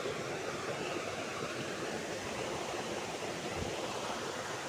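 Waterfall rushing steadily: an even roar of falling water.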